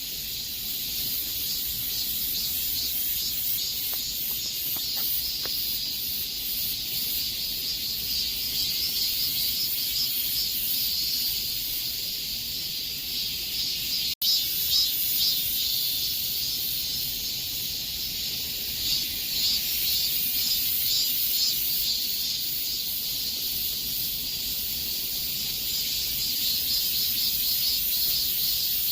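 A chorus of cicadas buzzing: a dense, shrill, pulsing drone that swells and eases, broken by a momentary gap about halfway through.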